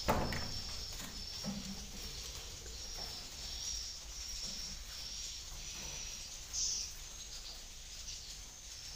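Swiftlet calls in a swiftlet house: a high chirp repeating at even spacing, a little under twice a second, with one louder chirp about six and a half seconds in. A sharp knock rings out at the start, and a few soft knocks follow.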